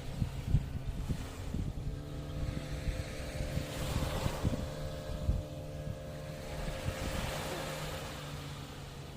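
Sea waves breaking and washing onto the shore, the wash swelling about four seconds in and again near the end, with wind buffeting the microphone. A steady low hum runs underneath.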